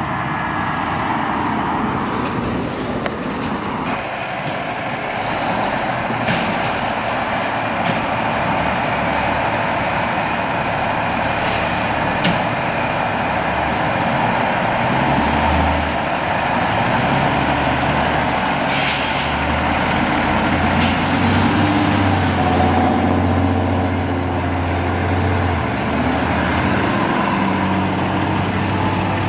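Fire truck's diesel engine running and building up from about halfway through, with short air-brake hisses among the street traffic noise.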